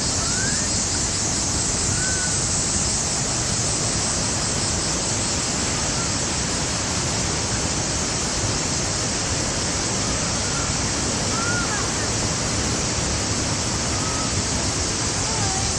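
Steady rushing of the Manavgat river's waterfall, with a few faint short chirps over it.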